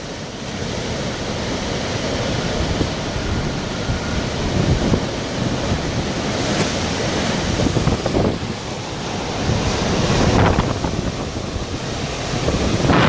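Hurricane-force wind gusting and buffeting the microphone: a loud rushing noise that swells and eases, surging about ten seconds in and again at the end.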